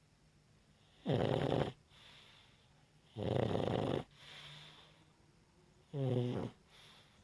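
A sleeping pug snoring: three loud, rasping snores about two and a half seconds apart, each followed by a quieter breath. The last snore has a clearer pitch.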